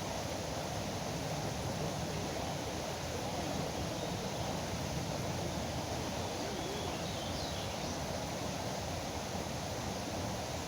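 Steady rush of flowing river water, with a few faint bird chirps about two-thirds of the way through.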